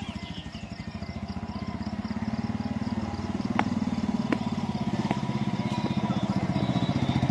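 A vehicle engine running steadily with a fast, even pulse, gradually getting louder, with a few sharp knocks in the middle, as on a bumpy off-road track.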